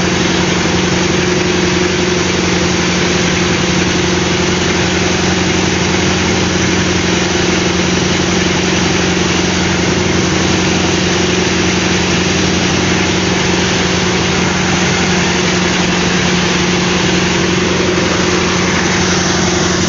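Rice milling machine running at a constant speed while milling palay, a loud steady engine-and-machinery drone that holds its pitch and level throughout.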